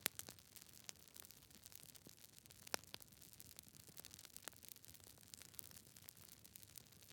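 Wood fire crackling: irregular sharp pops and snaps over a faint hiss, the loudest pops just at the start and a little under three seconds in.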